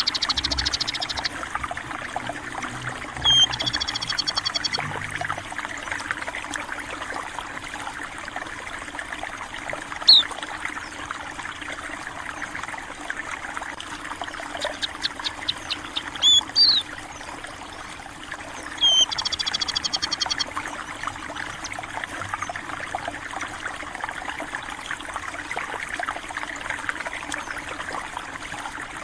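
Water trickling steadily in a small stream, with small birds chirping over it: quick chirp series and short trills several times, and one sharp single note about ten seconds in.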